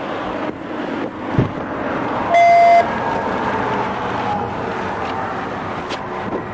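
Steady rushing background noise, broken about two seconds in by a single loud electronic beep lasting about half a second. A short knock comes just before the beep.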